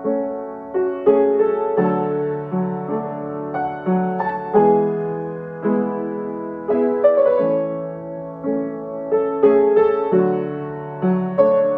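Solo piano music: a slow melody with chords, the notes struck and left to ring and die away.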